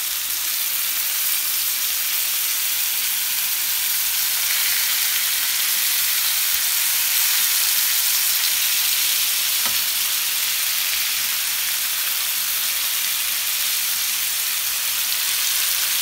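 Marinated tandoori chicken drumsticks frying in oil in a flat pan, a steady sizzle, as the pieces are turned over with metal tongs. One light tap about ten seconds in.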